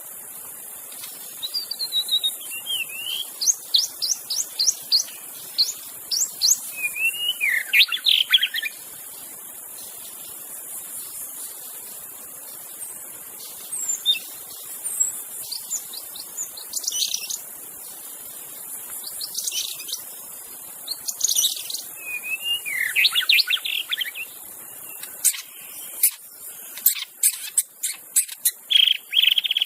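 White-rumped shama singing: phrases of sliding whistles and quick sharp notes, broken by pauses of a few seconds, over a steady high hiss.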